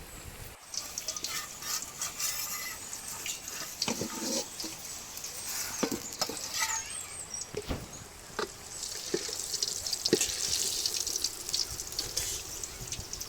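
Water splashing and dripping, with scattered clicks and clinks.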